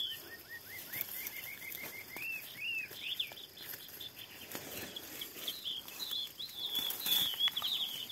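Songbird calling in quick series of short chirps and arching whistled notes, over a light rustle of dry grass and leaves being handled.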